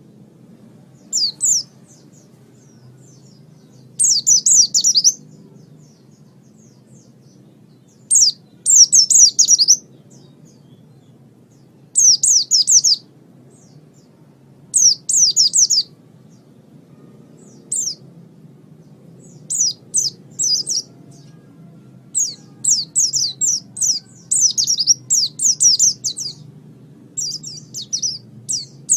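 White-eye (pleci) singing: short phrases of rapid, high chirps, each about a second long, repeated every few seconds and coming closer together in the last third. A steady low hum lies under the song.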